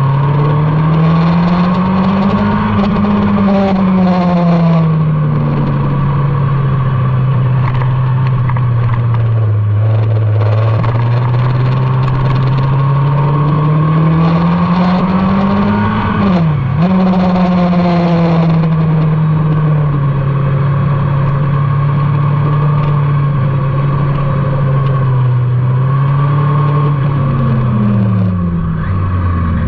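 Motorcycle engine running hard at track speed, heard onboard over steady wind rush. Its pitch climbs and falls with the revs, dips sharply at a gear change about halfway through, and drops near the end as the bike slows.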